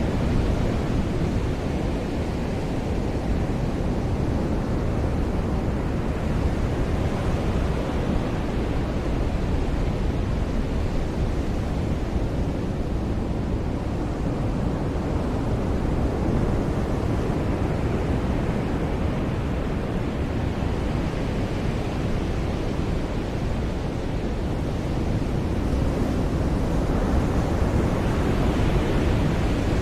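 Ocean surf breaking on a beach: a steady rushing wash of waves that swells and brightens near the end as a bigger wave comes in.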